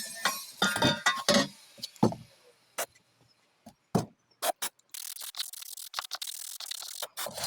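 Aerosol can of heat-resistant paint hissing in a spell of short sprays from about five seconds in, after a few seconds of clicks and knocks from handling the can and pipes.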